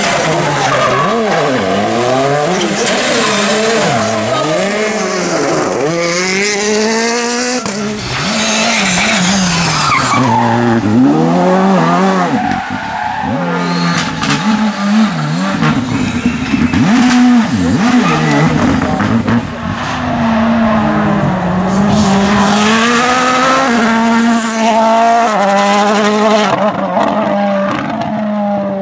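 Turbocharged rally cars driven hard on a tarmac special stage, one after another: each engine revs up, drops sharply at every gear change or lift for a corner, then climbs again.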